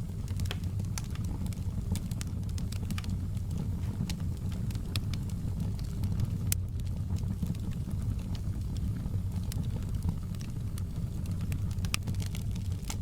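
Campfire burning with a steady low rumble and frequent irregular sharp crackles and pops from the burning wood.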